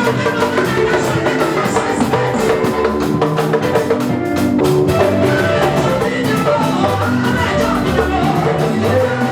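A live gospel worship band playing with drum kit, bass and keyboard, with singing coming in about halfway through.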